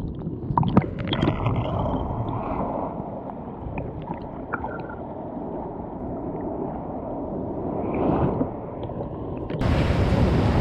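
Rushing stream water, with a few knocks near the start. Near the end it cuts abruptly to a louder, steady rush of water with wind on the microphone.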